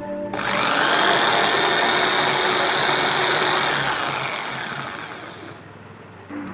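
Electric hand drill's motor spinning up as the trigger is pulled, running steadily for about three seconds, then winding down after release.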